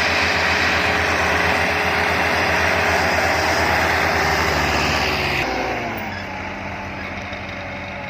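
Diesel tractor engine running hard at full throttle, a steady loud drone. About five and a half seconds in, it drops in level and turns duller.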